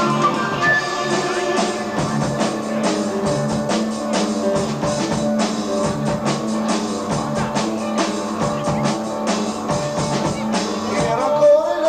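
Progressive rock band playing live on an amateur tape recording: a busy drum kit, electric guitar, bass and keyboards in an instrumental passage.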